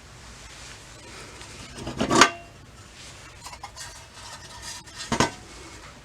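Metal parts and tools clinking and clanking as they are handled, with two louder clanks about two seconds and five seconds in and lighter clicks between them.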